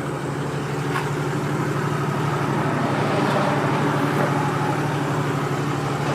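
Toyota 1HD-T 4.2-litre inline-six turbo diesel idling steadily, with a single click about a second in.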